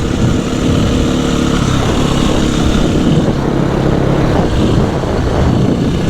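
250 cc dirt bike engine running while being ridden, its pitch dropping about a second and a half in and then holding lower, over a broad low rumble.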